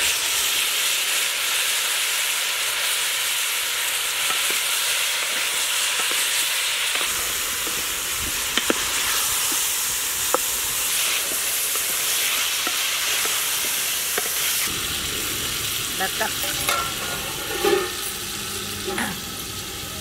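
Chicken pieces frying in hot oil in a large metal pot: a steady sizzling hiss, with a few sharp clicks of the spatula against the pot as it is stirred. The sizzle eases over the last few seconds.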